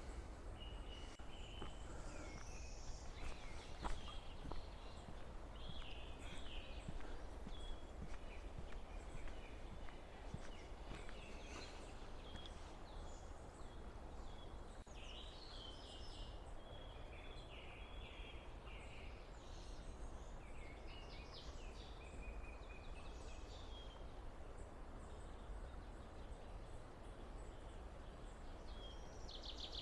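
Small birds chirping and calling again and again over a steady rush of flowing river water, with one brief knock about four seconds in.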